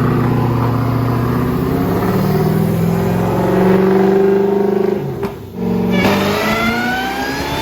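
Turbocharged, methanol-fuelled Ford engine pulling under load on a chassis dyno, its pitch climbing steadily. About five seconds in it briefly stumbles and drops, then climbs again. The breaking up at high revs is taken by the crew as a sign it is down a cylinder or losing spark.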